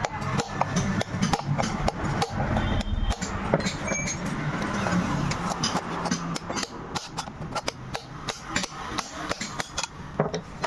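Rapid, irregular hammer strikes on metal, many sharp taps a second, as in working a motorcycle wheel bearing out of or into its hub.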